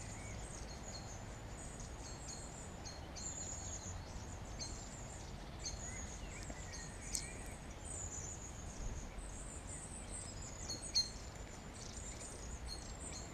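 Wren singing: a run of fast, high-pitched trills and chirps, over a low steady background rumble.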